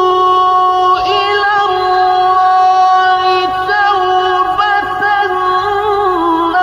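A high voice singing long, held notes with small wavering ornaments and slides between pitches.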